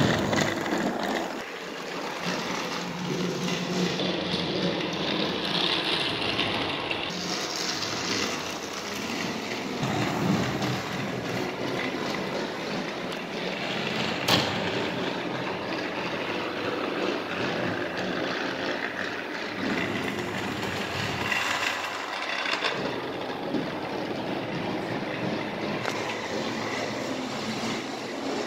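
Battery-powered TrackMaster toy engine running on plastic track: a steady motor whir with the rattle of wheels and gears, and one sharp click about halfway through.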